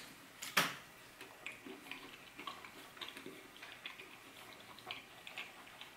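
Close-miked eating sounds of pecan pie with ice cream: soft chewing with many small wet mouth clicks, and a sharper click about half a second in.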